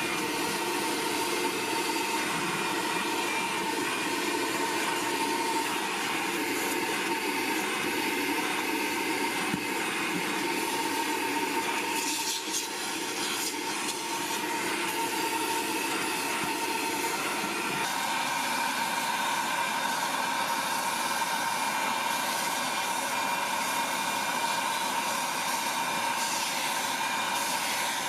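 Vacmaster VQ607SFD stainless steel wet/dry shop vacuum, 3-peak-horsepower motor, running steadily while vacuuming carpet with its floor brush. The motor whine dips briefly a little before halfway and changes tone about two-thirds of the way through.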